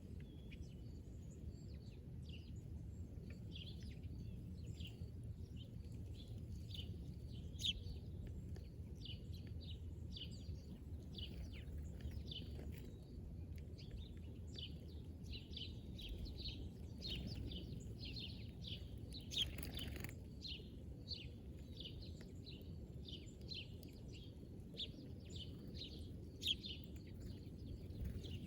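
Birds chirping: a continuous run of short, high chirps, several a second, over a steady low background rumble. A brief rushing noise passes about two-thirds of the way through.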